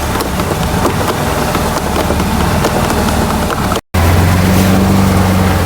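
Motorboat engine running at a steady pace, with a rush of wind and water over it. The sound breaks off for an instant about four seconds in, and the engine hum is louder after it.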